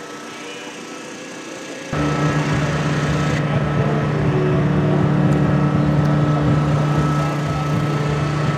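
A vehicle engine running steadily with a constant hum. It cuts in abruptly about two seconds in, after quieter background noise.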